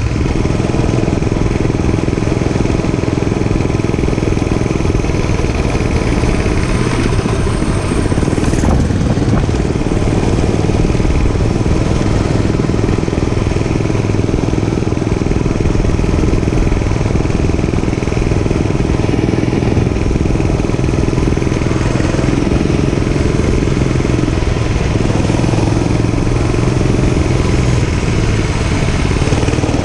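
Dirt bike engine running steadily under way, holding a fairly even speed.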